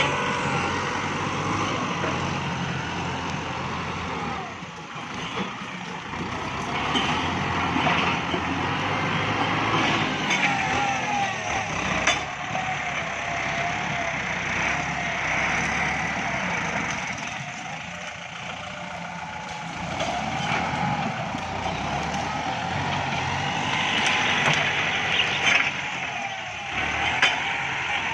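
Kubota MU5702 tractor's diesel engine working under heavy load, its pitch sagging and recovering again and again as the load changes.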